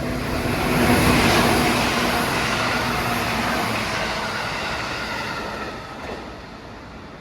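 JR West 221 series electric multiple unit passing at speed, its wheel and running noise rising to a peak about a second in and fading away over the next five seconds.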